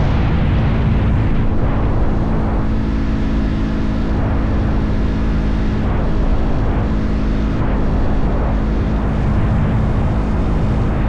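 Motorcycle engine running at a steady cruise, its low hum even throughout, under the rush of wind and road noise.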